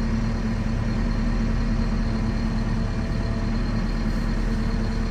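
Fermec backhoe's diesel engine running steadily as the machine drives along with a loaded front bucket.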